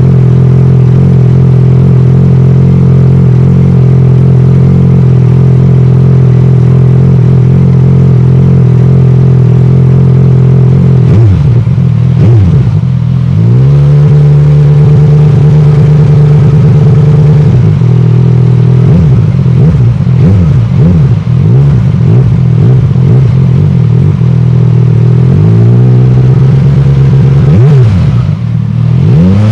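Yamaha Aerox 155 scooter engine on its stock exhaust, its sound edited to resemble a big bike. It runs at a steady fast idle for about the first ten seconds, then the throttle is blipped and held. A string of quick throttle blips follows in the second half, with another rev near the end.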